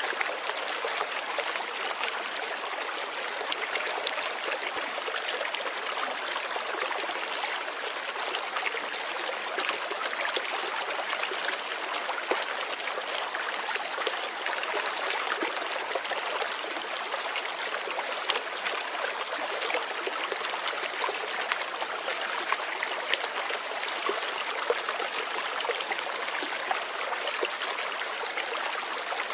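Steady light rain: a dense, even hiss with many small drop ticks.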